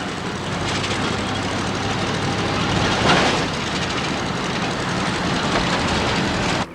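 Steady road and engine noise heard from inside a moving car, a hiss with a low hum underneath, swelling briefly about three seconds in and cutting off abruptly near the end.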